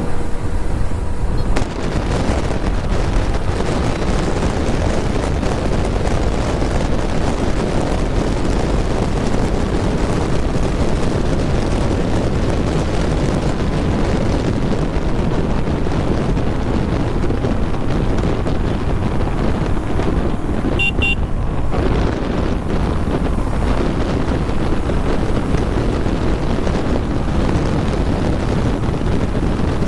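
Wind noise buffeting the microphone while riding a KTM Duke 250 motorcycle, its single-cylinder engine running steadily underneath. A brief horn toot sounds about two-thirds of the way through.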